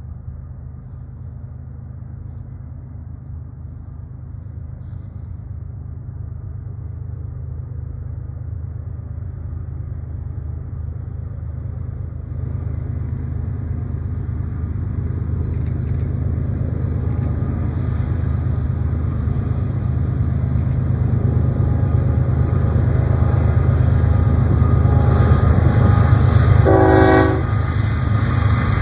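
Train drawing nearer, its low engine rumble growing steadily louder with rising hiss above it, and a short horn blast about a second before the end.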